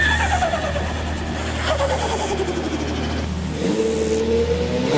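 Motocross bike engines revving past, their pitch falling as each one goes by. In the second half one engine holds and climbs in revs as it accelerates, over a steady low rumble.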